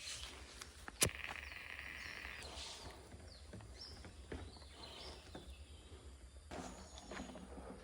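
Outdoor ambience: birds chirping in short rising and falling calls over faint rustling in the undergrowth, with a single sharp snap about a second in.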